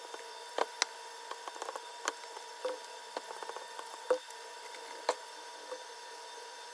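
Irregular small clicks and scrapes of a blade working the old, sun-degraded polarizer film off an LCD's glass, over a faint steady hum.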